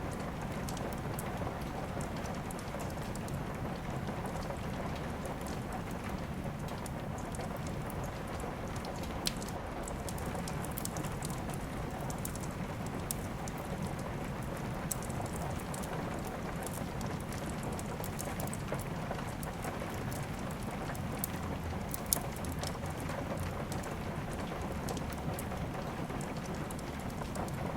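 Steady rain mixed with scattered sharp crackles and pops of a burning wood fire; a few pops stand out, the loudest about 22 seconds in.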